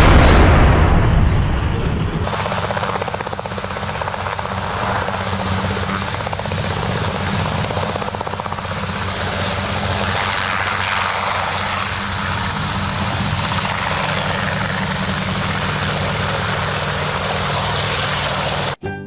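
The rumble of a blast dies away over the first two seconds, then a helicopter's steady rotor and engine noise runs on and cuts off abruptly just before the end.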